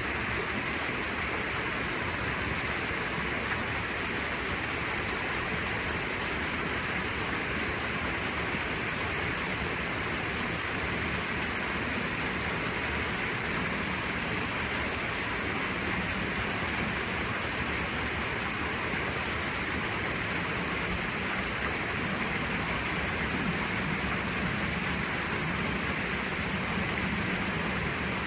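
Kei truck driving at a steady speed, its engine and road noise making an even, unbroken rush.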